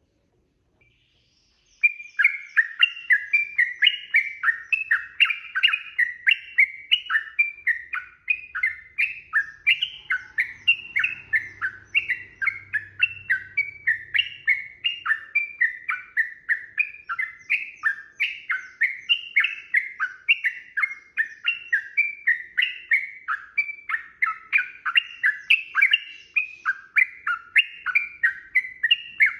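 Yellow-vented bulbul (trucukan) singing a long, unbroken run of quick, bubbly chirping notes, about three a second, starting about two seconds in.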